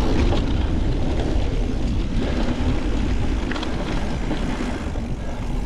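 Wind buffeting the camera microphone and tyres running over a dirt singletrack on an e-mountain bike ride, a steady low noise with a few light rattles from the bike.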